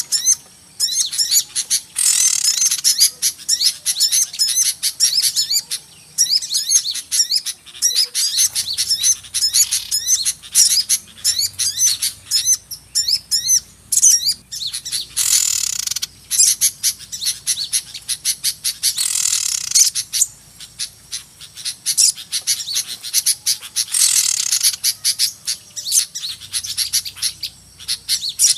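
Busy chorus of small songbirds chirping and trilling in rapid high notes, with harsh buzzy calls breaking in every few seconds: a recording played as a lure to draw small birds to a trap.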